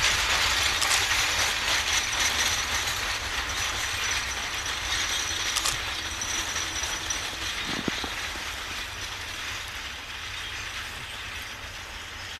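A narrow-gauge coal train rolling past and moving away, its wagons giving a dense mechanical rattling that fades gradually, with a single sharp click about eight seconds in.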